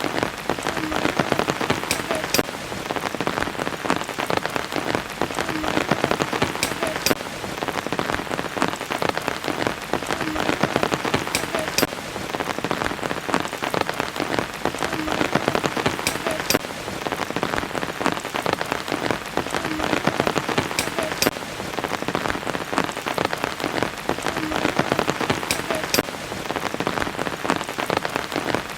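Steady rain falling on a surface, a dense patter of many individual drops. The same stretch of drops repeats about every four and a half seconds, as in a looped recording.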